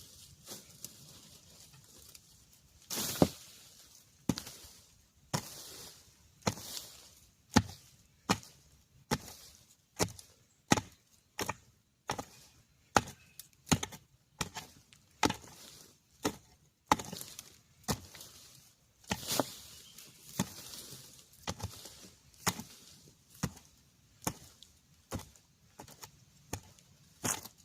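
A hand tool chopping repeatedly at a bamboo shoot and the ground around it while digging it up. The strikes are sharp and separate, about one a second, and keep up steadily.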